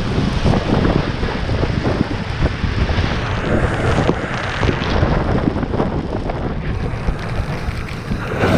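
Strong wind buffeting the microphone in gusts, a loud rumbling rush over a steady sound of wind and water.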